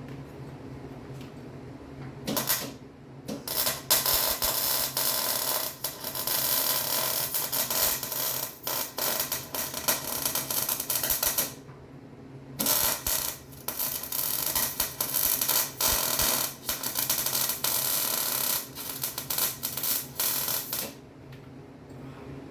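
Electric arc welding on a Jeep frame cross member: two welding runs of about nine and eight seconds, each a dense, steady crackle with a short pause between them, over a steady low hum.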